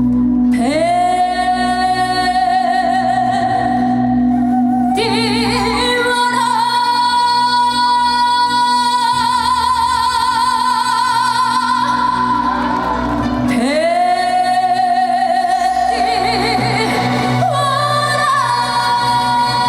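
A woman singing a trot song live, holding long notes with wide vibrato and sliding up into them, over backing music.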